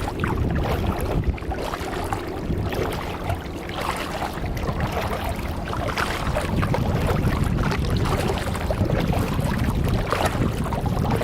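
Small waves from a boat wake slapping and lapping against a kayak's hull, over a low rumble.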